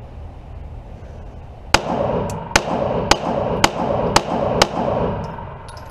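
Six rapid 9mm pistol shots from a CZ TS2, about half a second apart: a bill drill fired as fast as possible.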